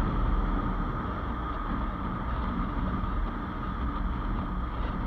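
Motorcycle on the move: a steady low engine and road rumble with wind noise on the microphone.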